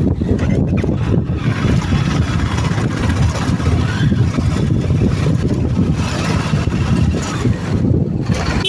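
Steady, loud rumble of a moving vehicle in traffic, with wind buffeting the microphone over the engine and road noise.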